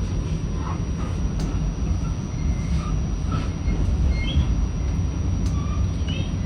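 Passenger train running on the rails: a steady low rumble of wheels and cars, with short, scattered high-pitched wheel squeals.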